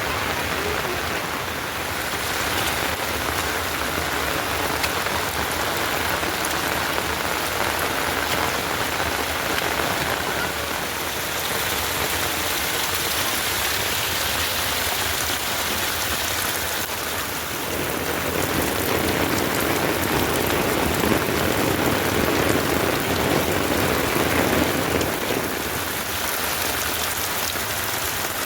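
Heavy rain falling steadily, growing a little louder and fuller for several seconds in the second half.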